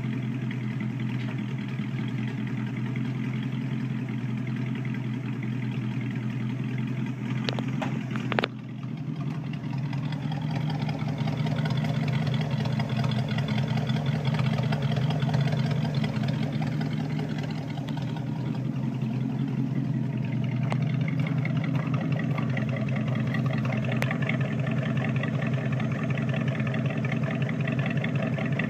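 AMC 327 V8 idling steadily through muffler-shop dual 2-inch exhaust pipes with short glasspack resonators. There is a brief click and dip about eight seconds in, then it runs a little louder.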